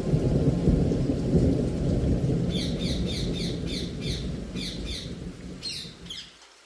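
Rain with a low rumble of thunder that dies away near the end. Midway, a small bird gives a quick run of short, falling chirps, about three a second.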